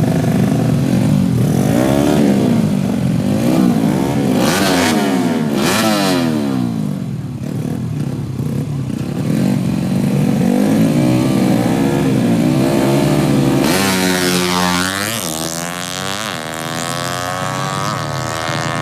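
Small-capacity drag-racing motorcycle engines revved again and again, pitch swinging up and down. About fourteen seconds in, one bike pulls away hard, its pitch climbing in steps as it shifts up through the gears.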